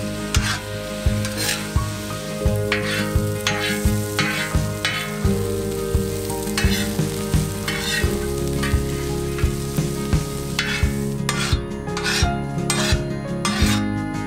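Chicken and vegetables sizzling on a hot carbon-steel plow-disc pan, with a metal spatula stirring and scraping across the steel in repeated strokes. Background music with a steady beat plays under it.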